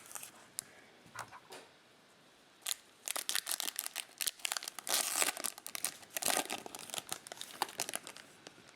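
Trading card pack wrapper crinkling and rustling as it is handled, a few scattered crackles at first and then a dense run of crinkling from about three seconds in to near the end.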